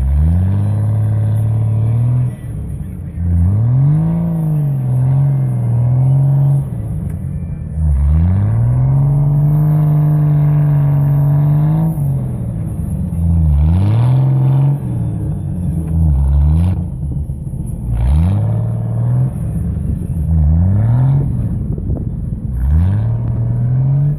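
Vehicle engine revving up and dropping back again and again, about ten times, with a few seconds of steady high revs in the middle, while pushing through deep snow.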